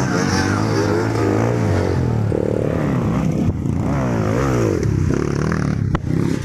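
Trail motorcycle engine revving hard, its pitch rising and falling again and again as the throttle is worked, with a sharp knock about six seconds in.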